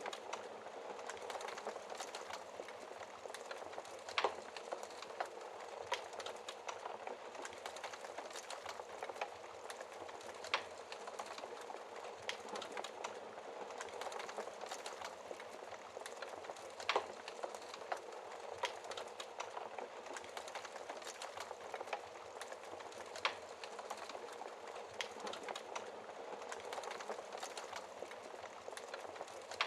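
Wood fire burning in a fireplace: a steady hiss and fine crackle of burning logs, with irregular sharp pops, the loudest about four seconds in and about seventeen seconds in.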